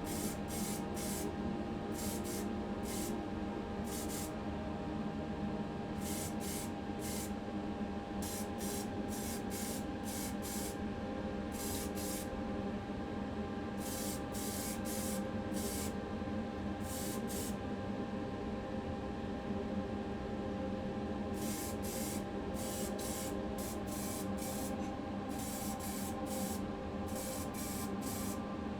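Primer being sprayed in short hissing bursts, several in quick succession, then pauses of a second or a few seconds between clusters, over a steady hum.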